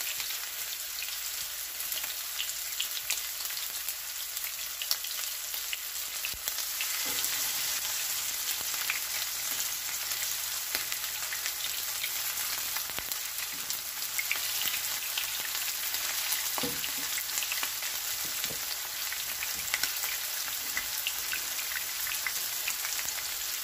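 Breaded pork cutlets shallow-frying in hot canola oil in a nonstick pan: a steady crackling sizzle. It grows louder about seven seconds in, as a second cutlet goes into the oil. A few light spatula knocks come later.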